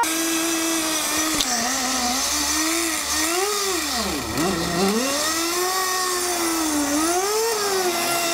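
Nitro glow engine of a Kyosho Blizzard radio-controlled model running, its high, buzzing pitch rising and falling with the throttle. It dips sharply low about four seconds in, then climbs again.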